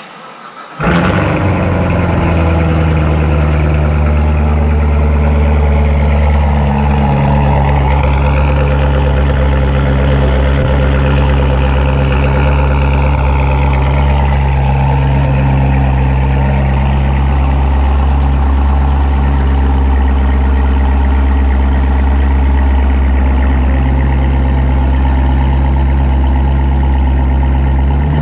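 Supercharged Corvette Z06 V8 starting: a brief crank, catching about a second in, then a loud, steady idle.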